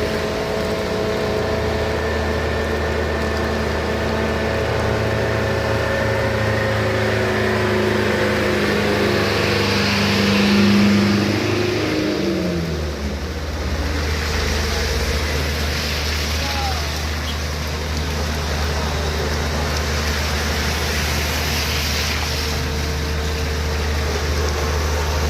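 Heavy vehicle's diesel engine running at steady revs, rising briefly about ten seconds in, then dropping away about halfway through to a steady low rumble.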